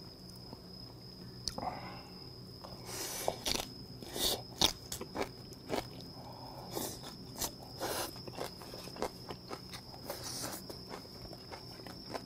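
Close-up chewing of straw-fire grilled pork belly wrapped in kimchi: irregular wet crunches and mouth smacks, with a faint steady high chirring behind.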